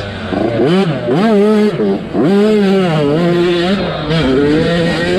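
Motocross bike engine revving hard and backing off in quick cycles as the throttle is opened and chopped. The pitch climbs and drops several times, with a short lift-off about two seconds in.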